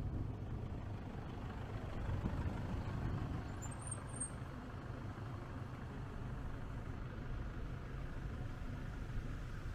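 Steady low rumble of road traffic, with a brief high chirp about four seconds in.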